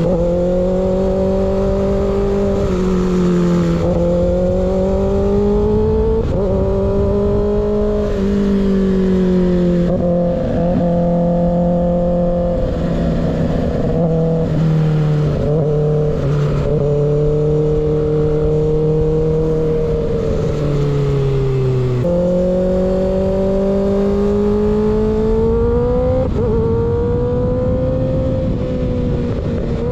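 Kawasaki ZX-6R inline-four engine through an unbaffled M4 GP19 slip-on exhaust, riding at moderate revs. The engine note climbs and drops back in steps as the rider changes up through the gears. About two-thirds of the way through, the revs jump up sharply on a downshift and then climb again.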